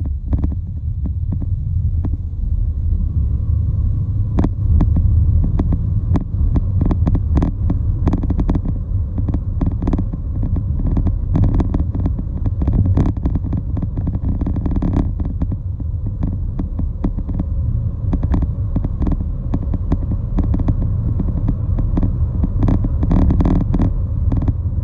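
Steady low rumble of road and wind noise on a moving microphone, with frequent crackles and knocks throughout.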